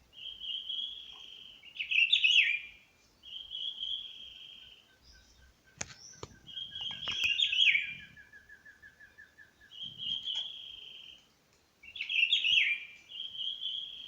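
A songbird singing a repeated phrase three times: a held whistled note followed by a quick warbled flourish. Through the middle a second, lower series of short notes repeats rapidly for several seconds, and a few sharp clicks sound about six seconds in.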